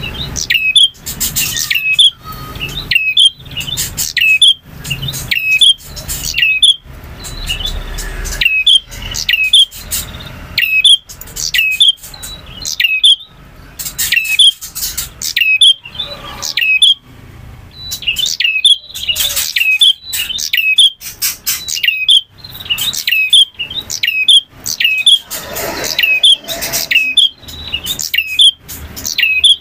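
Male prinia (prenjak) singing: loud, rapid series of sharp, clicking chirps repeated in quick phrases, with a short pause a little past the middle.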